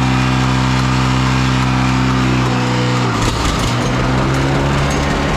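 John Deere 720 Diesel's gasoline pony engine running steadily as it spins the diesel over to bring up oil pressure. About three seconds in, the even engine tone breaks up into a rougher, choppier knocking run.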